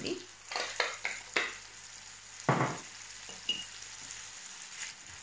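Shrimp frying in butter and oil in a nonstick pan, sizzling steadily with sharp crackles in the first second and a half and one louder pop about two and a half seconds in.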